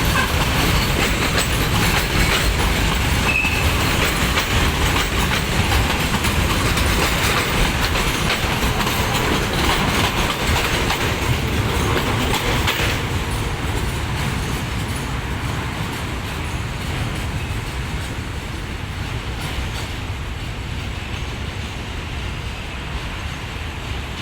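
Freight train wagons rolling past, wheels clattering and rattling over the rail joints; about halfway through the sound thins and grows slowly quieter as the train moves away.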